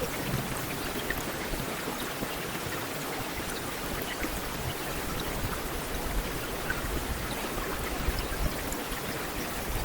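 Heavy rain falling steadily: a dense, even hiss with many small scattered drop ticks.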